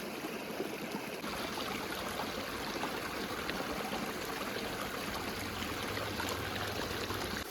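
River water flowing steadily, an even rushing sound that grows slightly fuller about a second in.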